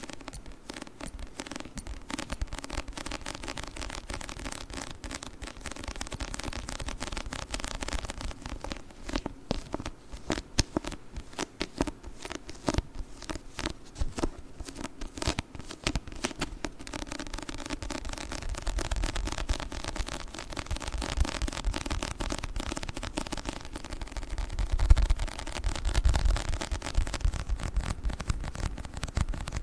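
A book handled close to the microphone for sticky-sounds ASMR: a dense run of fine crackling and peeling sounds, with a few low thumps near the end.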